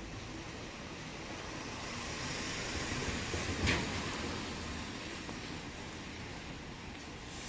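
Steady outdoor background noise that swells and fades over a few seconds, with one sharp click about halfway through.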